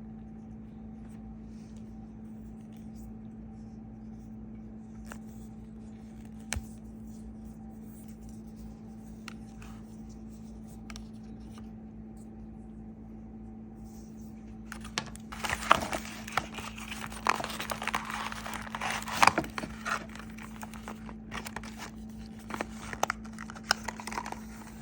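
A steady low hum with a few light clicks, then, about fifteen seconds in, packaging being handled: busy crinkling and tearing with sharp rustles as the box and its wrapping are opened.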